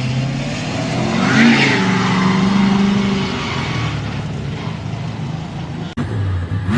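Monster truck engine revving: the pitch climbs about a second in, holds for a second or so, then drops back to a lower steady note. The sound cuts off abruptly near the end.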